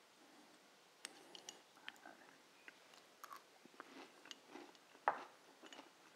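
Faint crunching as a person chews a spoonful of chili crunch, crisp chili oil full of fried onions, peanuts and sesame, with a few light clicks of a metal spoon in a ceramic ramekin.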